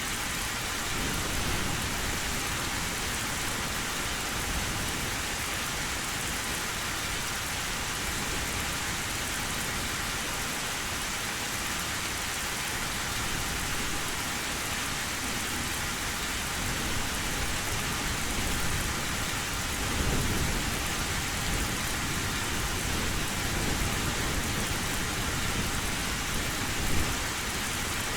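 Heavy rain pouring steadily on an old tin roof, with thunder rumbling low underneath; the rumble swells about two-thirds of the way through, and a short louder crack comes near the end.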